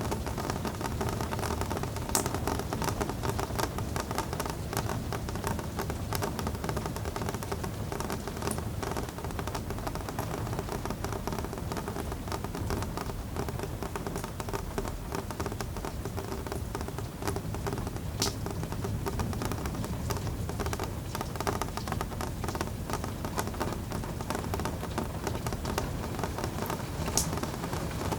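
Steady rain falling, a dense even patter with a few sharper drop ticks standing out now and then.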